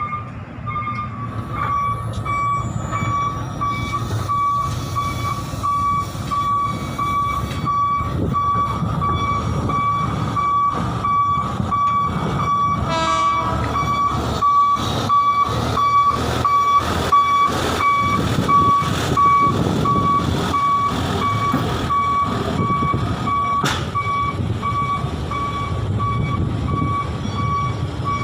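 Truck reversing alarm beeping rapidly and steadily over the low running of the truck's engine. A run of regular knocks sounds through the middle.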